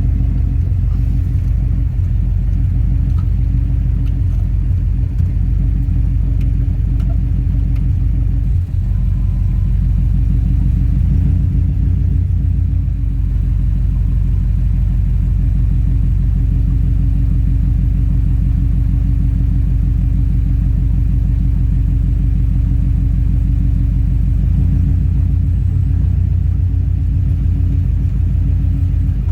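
A Subaru EJ207 turbocharged flat-four running at a rough idle, giving a steady low rumble that pulses rapidly. The owner asks whether the fault behind it is the fuel pump, the fuel pump control module or the wiring, with code P1230 stored.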